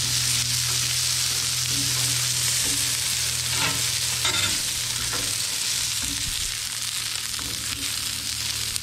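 Steak fries sizzling steadily in hot oil on a 36-inch Blackstone propane griddle's flat steel top. A metal spatula scrapes and taps the griddle a few times around the middle.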